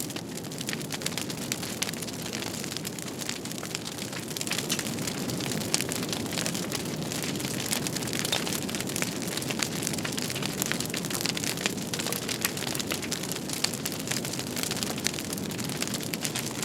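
Wood fire crackling: a steady hiss and rumble of flames with many sharp, irregular pops and snaps, growing a little louder about four seconds in.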